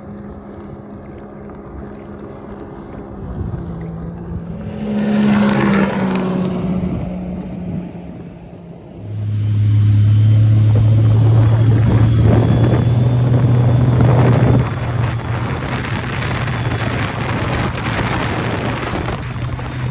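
Supercharged 2007 Sea-Doo 215's three-cylinder four-stroke engine on a test pull. It revs briefly a few seconds in, then from about nine seconds in runs hard at full throttle with a high whine over it that creeps up in pitch. It eases back somewhat about five seconds later.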